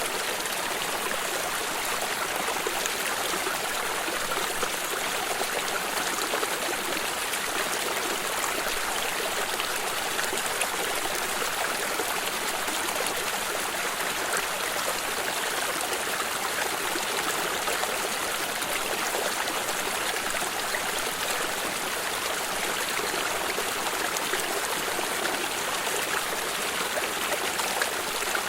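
A stream of water running and trickling at a steady level, with no breaks.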